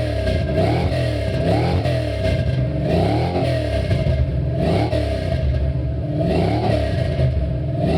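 GM B-body car's V8 with a loud aftermarket exhaust being revved over and over, the note climbing and falling back roughly once a second.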